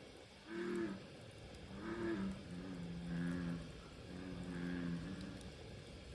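Frogs calling: four low, moo-like croaks, each under a second long, repeating about every second and a half.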